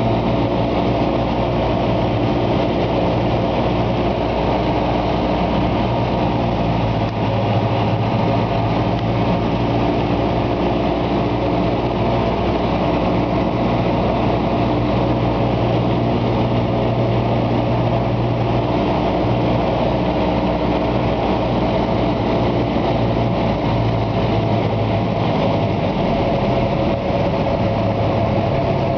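Small plane's engine running steadily, heard from inside the cockpit: a constant drone with several steady tones over a wide hiss.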